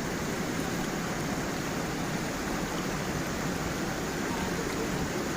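Stream and small waterfall running: a steady, unbroken rush of flowing water.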